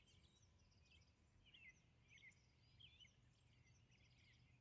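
Near silence with faint, scattered bird chirps and a low background hum.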